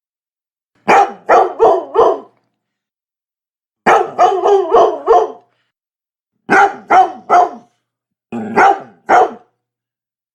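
Labrador retriever barking in four quick bursts of three to five barks each, with dead silence between the bursts.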